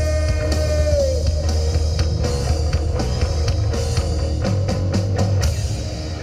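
Live rock band playing with guitar, bass and drums: a sustained note slides down and stops about a second in, and the band plays on, with a quick run of drum hits near the end.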